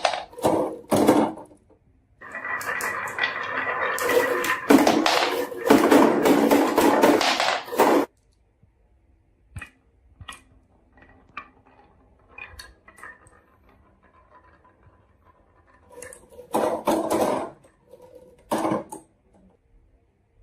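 Marbles rolling and clattering down a wooden marble run. A dense rattle lasts several seconds, then scattered single clicks follow, and a shorter burst of rolling comes near the end.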